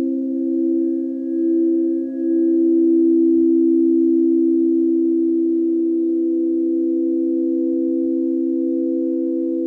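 A sound-healing drone of several sustained pure tones at different pitches, layered together. It wavers in loudness over the first two seconds, dips briefly about two seconds in, then holds steady.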